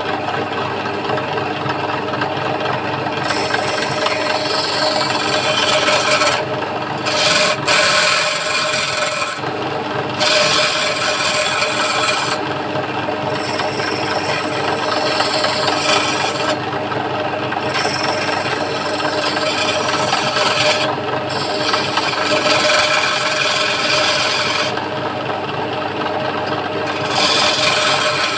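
Wood lathe motor running steadily while a turning chisel cuts the spinning wooden leg in repeated passes, a rasping scrape that comes and goes every few seconds over the motor's hum.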